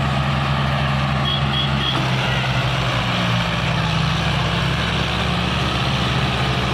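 Tractor engine running steadily. Three short high chirps come a little over a second in.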